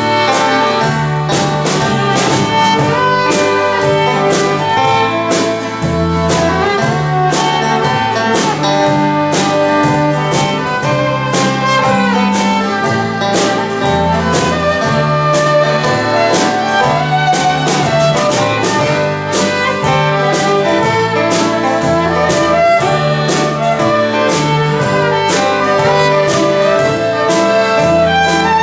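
Live band playing an instrumental break with no vocals: drums keep a steady beat under a moving bass line while a lead instrument carries the melody.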